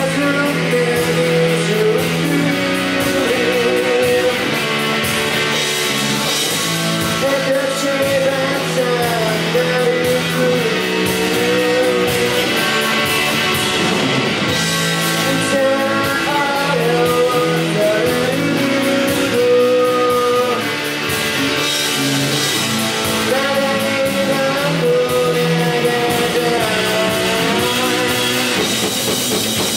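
Rock band playing live, with electric guitars, bass and drum kit under a wavering lead melody.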